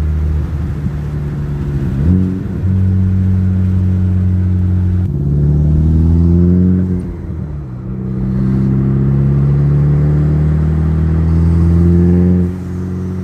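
Car engine accelerating hard, its pitch climbing, then dipping briefly about eight seconds in as it shifts gear, and climbing again until the revs drop off suddenly near the end. There is a short rev blip about two seconds in.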